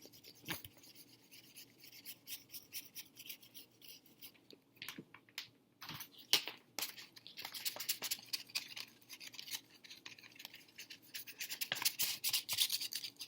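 Paintbrush spreading paint over a paper plate: rapid scratchy brushing strokes that get busier and louder about halfway through.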